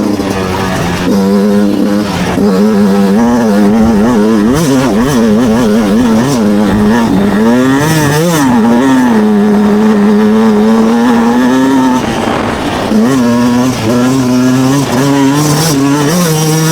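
Two-stroke motocross bike engine revving hard, its pitch rising and falling rapidly with the throttle. It holds a steady high note for a few seconds in the middle, drops briefly about twelve seconds in, then revs up and down again.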